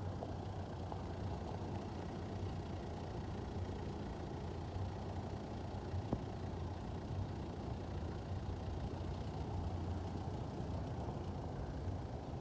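Boeing 737's jet engines running, a steady low rumble.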